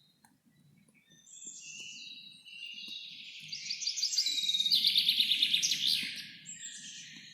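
A songbird singing one long, complex song that builds into a loud, rapid trill of repeated notes and then fades, over a faint low rumble of background ambience.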